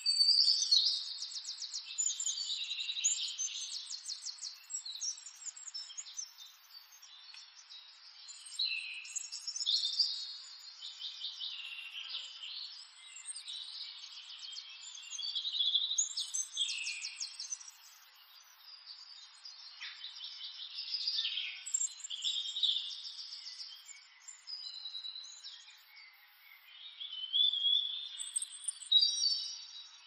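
Birds singing: bouts of high chirps and fast trills that come back every five or six seconds.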